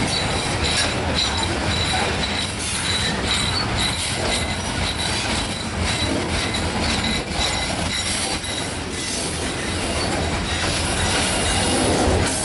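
Freight train of covered hopper cars rolling past close by: steady rumble and clatter of steel wheels on the rails, with repeated clicks as the wheels cross the joints.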